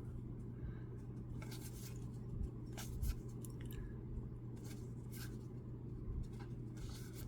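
Baseball trading cards being flipped through by hand: faint, scattered slides and soft ticks of card stock, over a steady low hum.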